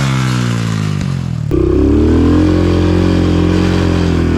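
Single-cylinder four-stroke Honda TRX125 engine in a trail bike, its revs falling off for about a second and a half; then, with a sharp click, it picks up again and holds a steady higher pitch.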